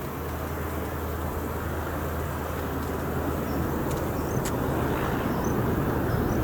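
Engine noise of a landing Boeing 747-400 freighter with four turbofans: a steady noise growing gradually louder.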